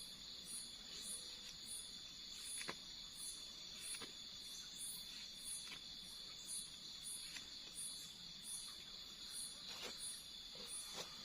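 Insect chorus: a steady high trill with a second insect's chirp pulsing evenly above it. A few soft, sharp clicks are scattered through it.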